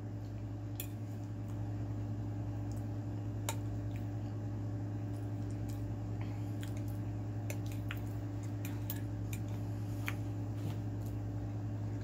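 Close-miked eating sounds: chewing and small wet mouth clicks with occasional light taps of a fork on the plate, over a steady low hum.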